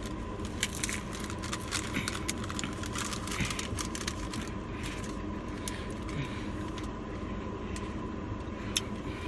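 Eating sounds: chewing with many small mouth clicks and crinkles, thickest in the first half, over a steady background hiss with a faint steady tone.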